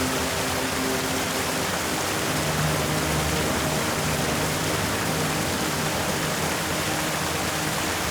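Steady rushing noise, even and unbroken, with faint low sustained tones underneath.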